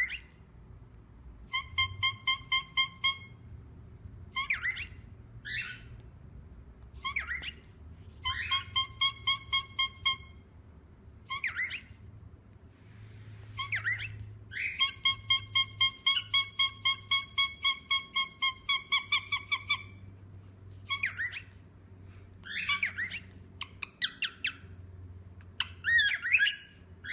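A pet bird calling: runs of rapid, evenly pulsed beeping notes, the longest lasting about five seconds, alternating with short squawks.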